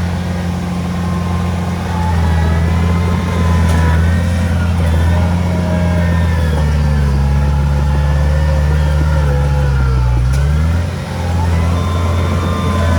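Heavy diesel engine of earthmoving machinery running under load. Its pitch sags through the middle and picks up again near the end, with higher wavering squeals over it.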